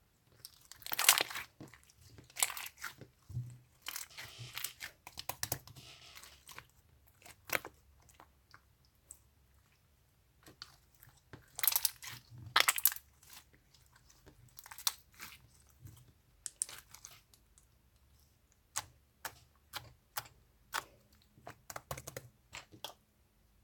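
Irregular crunching and crackling noises: a run of short noisy bursts and sharp clicks at uneven intervals, loudest about a second in and again around halfway.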